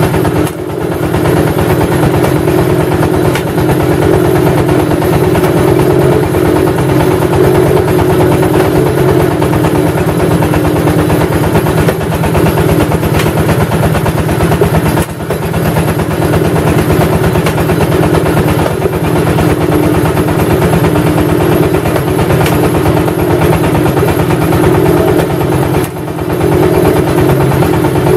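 Engine of a clay brick press machine running steadily under load, with brief dips in loudness about a second in, midway and near the end.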